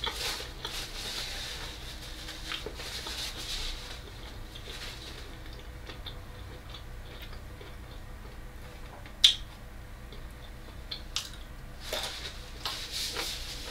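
Close-miked chewing of pizza with wet mouth noises, heaviest near the start and again near the end. A single sharp click about nine seconds in is the loudest sound.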